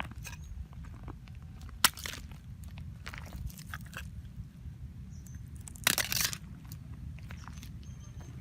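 A single sharp click about two seconds in and a short crunching clatter about six seconds in, with small faint clicks in between, over a steady low hum.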